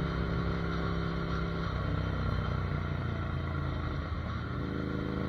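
Ducati Monster 797's air-cooled L-twin engine running under way, the revs dropping about two seconds in and picking up again near the end.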